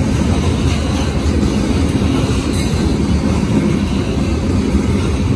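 Train cars rolling past, a steady noise of wheels running on the rails.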